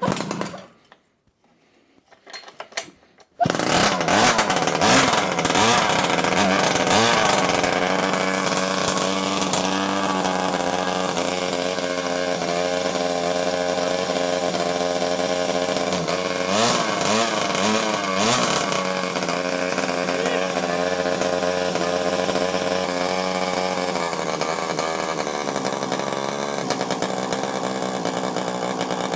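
49cc two-stroke minimoto engine driving a Henry vacuum cleaner's pump, coming in suddenly about three and a half seconds in and then running steadily and loud. Its pitch wavers up and down for a couple of seconds about halfway through.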